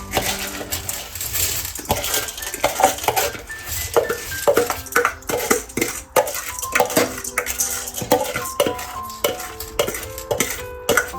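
Utensils clinking and scraping against dishes in quick, irregular strokes, a few every second, over background music with held notes.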